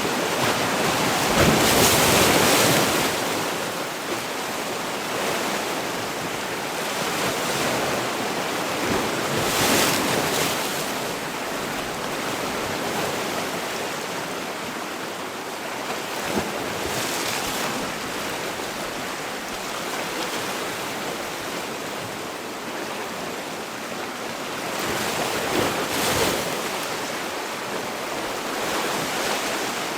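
Sea waves breaking on the shore, a steady wash of surf that swells louder every several seconds as waves come in.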